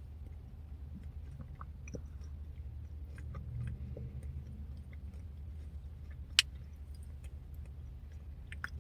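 Quiet chewing of a blueberry, pecan and yogurt parfait, with scattered small clicks and one sharp click about six seconds in, over a steady low hum.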